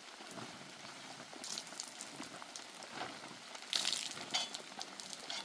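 Rain falling steadily, an even hiss with scattered sharper drop impacts, louder clusters of taps about a second and a half in and again near four seconds.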